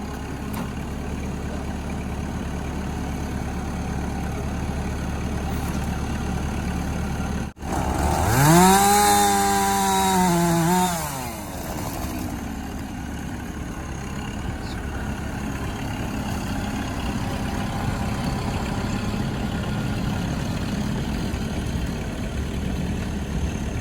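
Chainsaw revved up once for about three seconds, its pitch rising, holding and then dropping back, over a steady engine idling underneath.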